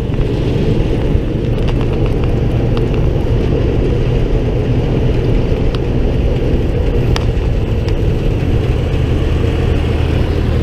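Engine of a small open farm vehicle running steadily as it drives along, with a few sharp ticks and rattles over the drone.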